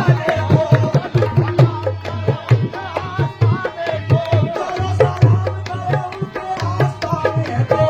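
Qawwali music: a fast, driving hand-drum rhythm on dholak under a wavering melody line.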